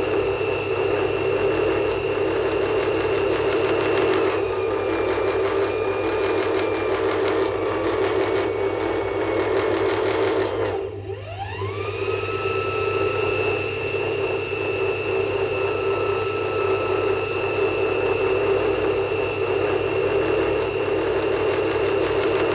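Steady droning hum made of several held tones, shifting pitch a couple of times; about halfway through it briefly sags and sweeps back up in pitch.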